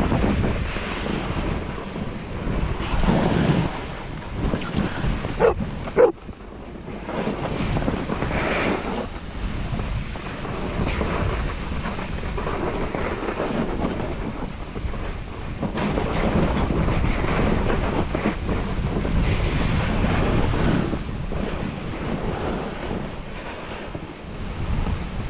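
Snowboard sliding and carving over snow with wind rushing across the microphone, in long swells that rise and fall. Two short sharp sounds come about five and a half to six seconds in.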